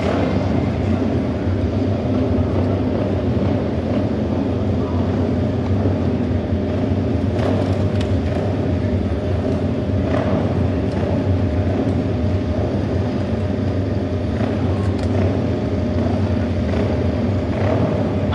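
Auto race motorcycle engines running together, a steady drone with no single bike standing out.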